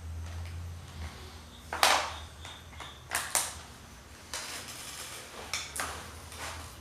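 Small metal hardware being handled on a workbench: a handful of separate sharp clinks and taps, with a low hum in the background.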